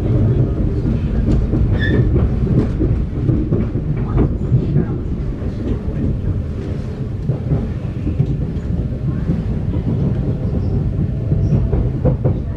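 Thameslink Class 700 electric train running at speed, heard from inside the carriage: a steady low rumble with scattered clicks of the wheels over the rail joints.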